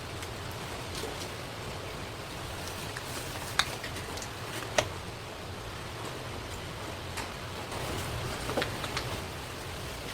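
Knife and fish handling on a cutting board: a few sharp taps and clicks, two strong ones in the middle and a small cluster near the end, over a steady hiss.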